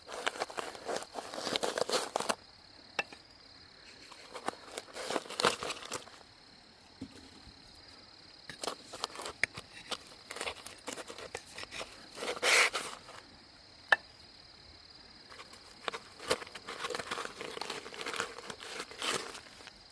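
Irregular rustling, crunching and scraping from hands-on work, in bursts of a second or two, over a faint steady high-pitched tone, with one sharp click about fourteen seconds in.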